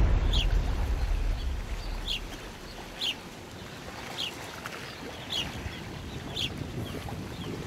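A bird repeating a short, high, falling chirp about once a second, over a low rumble of wind on the microphone; background music fades out at the start.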